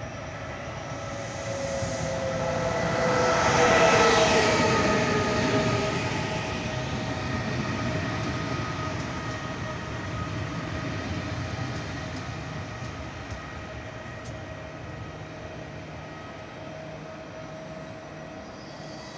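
Trenitalia Vivalto double-deck electric regional train running into a station. It grows loudest as it passes about four seconds in, with a tone gliding down. A steady whine and rumble then fade slowly as it slows along the platform.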